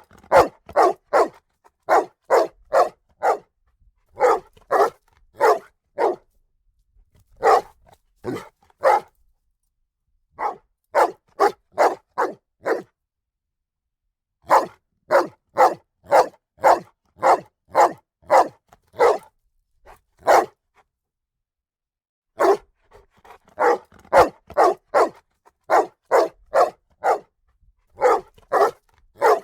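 A dog barking in quick volleys of several barks each, about two barks a second, with pauses of a second or two between volleys.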